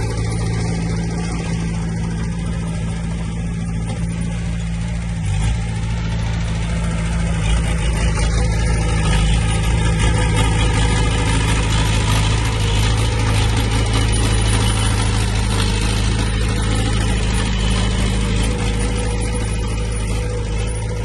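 Diesel engine of heavy earthmoving equipment running steadily, its level rising slightly partway through.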